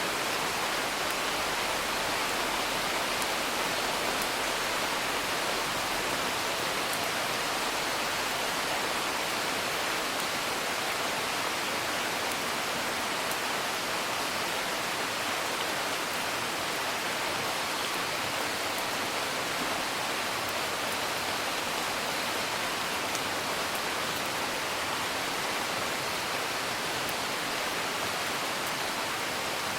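Steady rain, heard as an even hiss of falling water, with faint, scattered crackles of a wood fire.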